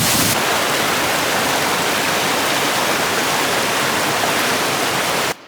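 Waterfall rushing: a loud, steady wash of falling water that cuts off abruptly near the end.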